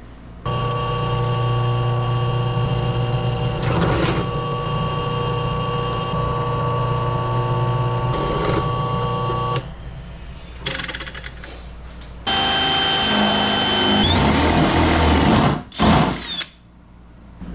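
Power drill running, drilling holes in sheet metal for rivet nuts: one long run of about nine seconds, then after a pause a second, shorter run, followed by a few sharp knocks near the end.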